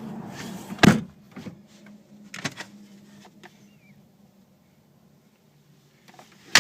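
A 2008 Audi TT's door shutting with one loud thump about a second in, followed by a few lighter clicks and knocks, then a single sharp click near the end.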